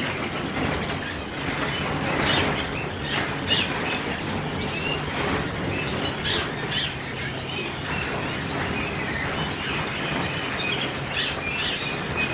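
Many caged canaries chirping and twittering, short calls overlapping throughout, over a steady background hum.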